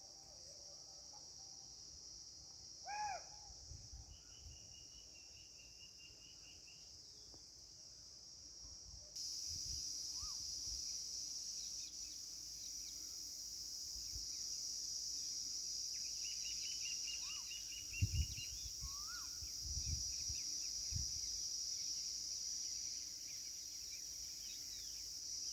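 Steady high-pitched drone of insects, with birds calling and giving short trills over it. The insect drone gets louder about a third of the way through, and a few low thuds come near the end.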